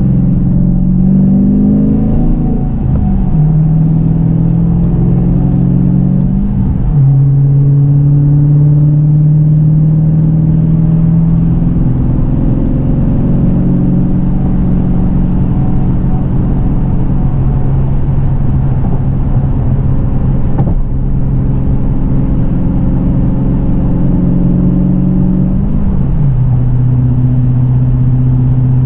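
2018 Dodge Challenger R/T Scat Pack's 6.4-litre Hemi V8 running through 2.75-inch straight pipes in place of the factory mufflers, the resonators kept, while driving. The engine note holds steady and steps down in pitch at upshifts about three seconds in, about seven seconds in and again near the end; the owner finds the setup free of drone.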